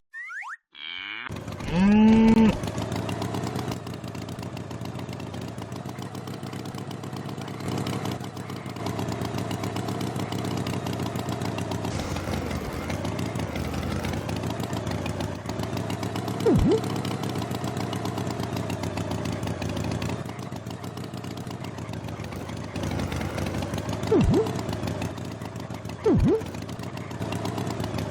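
A steady engine running, like a tractor's, with a short low call about two seconds in and three brief sharp blips later on.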